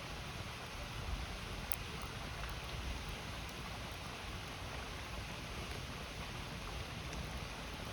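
A river flowing with a steady rush, over which a wood campfire crackles, with one sharp pop about two seconds in.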